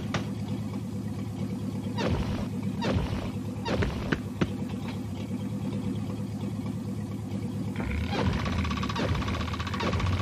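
Car engine running steadily while cruising, a low drone, with a few short sharp noises in the first half. Music comes in near the end.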